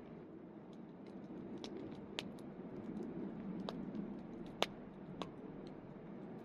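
Wood campfire burning with a steady low rush and scattered sharp crackles and pops, the loudest pop about four and a half seconds in.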